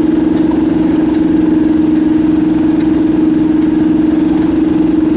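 A Class 37 diesel locomotive stands with its English Electric V12 engine running, giving a loud, steady, unchanging drone. The spotter wonders aloud whether the locomotive is supposed to make that noise.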